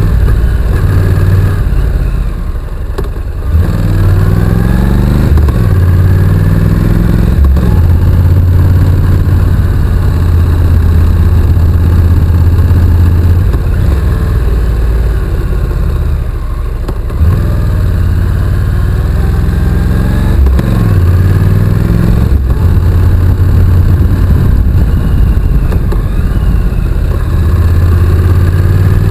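Honda NC750X's parallel-twin engine running under way, its pitch rising as it accelerates and falling back, with a few brief dips where the throttle is closed.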